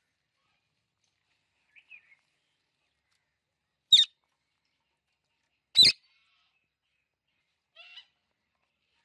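Parrot calling: two loud, short, sharp calls about two seconds apart, with soft chirps before and after them.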